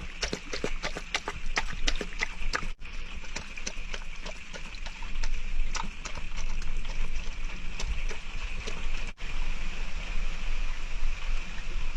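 Rain pattering on the roof of a small camper van: irregular drips and taps over a steady hiss of rain, the drops densest in the first few seconds.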